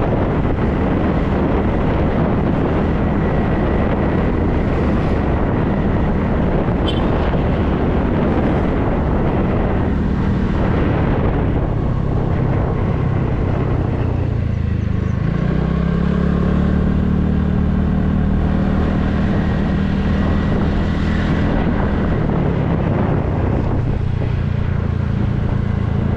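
Motorcycle engine running steadily under way, with wind noise on the microphone. The engine note rises about halfway through as the bike picks up speed, then holds.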